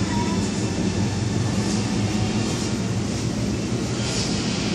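Interior running noise of an MTR East Rail Line SP1900 electric multiple unit in motion: a steady rumble of wheels on rails with a low hum underneath.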